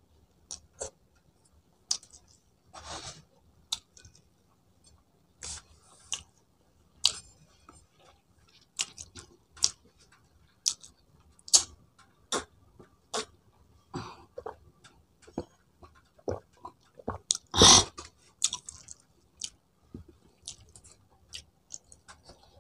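Close-up chewing and lip-smacking of a person eating rice and chicken by hand, a string of short, irregular wet clicks. One louder, longer smack-like sound comes about three-quarters of the way through.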